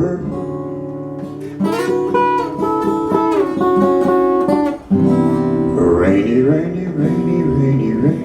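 Acoustic guitar, strummed and picked chords in a slow accompaniment, with a brief break just before the five-second mark.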